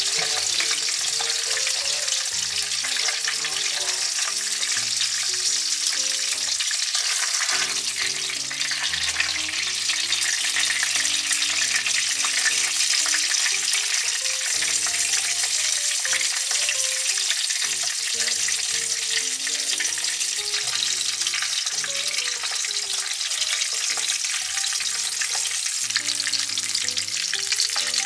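Fish fillet sizzling in hot oil in a frying pan, a steady hiss.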